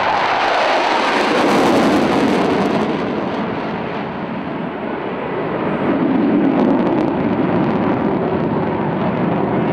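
F-16 fighter jet engine noise during a display pass: a loud, noisy jet rush that eases about four seconds in and swells again around six seconds.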